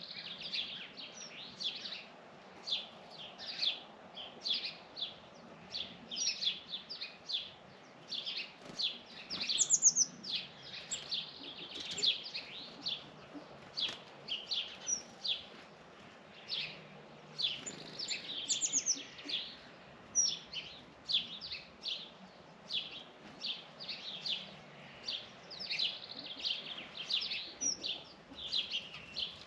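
Many birds chirping, with short high calls overlapping one after another throughout.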